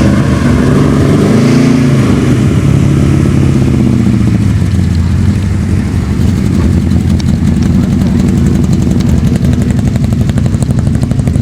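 A vehicle engine running close by. Its pitch rises and falls briefly in the first few seconds, then settles to a steady idle with a fast, even beat.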